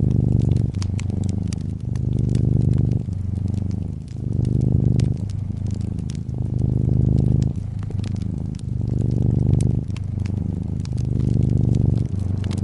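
Domestic cat purring close up: a loud low rumble that swells and eases in a regular rhythm with its breathing, about once every two seconds. Over it, a wood fire crackles with scattered sharp pops.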